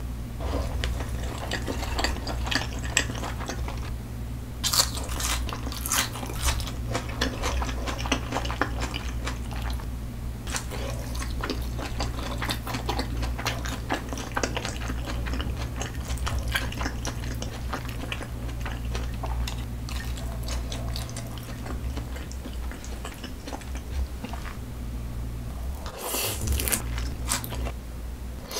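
Close-miked eating sounds: wet chewing and mouth smacks on thick-cut raw salmon and thin-sliced raw onion in cream sauce, with crisp crunchy bites, over a steady low hum.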